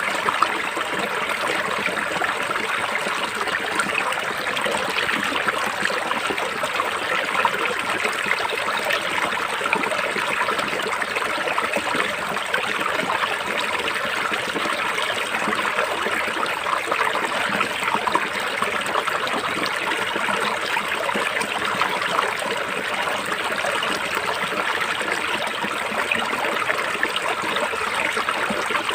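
River water flowing steadily, an even rushing and babbling that does not change in level.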